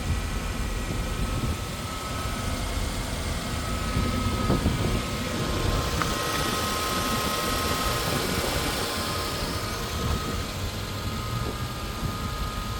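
The 4.7-litre V8 of a 2008 Lexus GX470 idling steadily shortly after a cold start. It is a low, even rumble with a thin steady whine above it.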